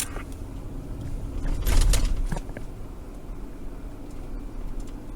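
Steady low road and engine rumble inside a moving patrol car's cabin, with a click at the start and a brief clatter about two seconds in.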